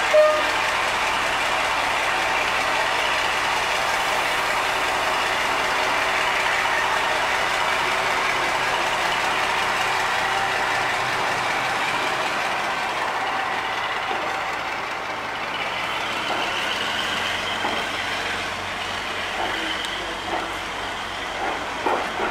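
Passenger coaches rolling past close by at speed, with steady wheel-and-rail noise that eases in the second half. Near the end come separate clicks of wheels running over rail joints. A brief, loud, high-pitched note sounds right at the start.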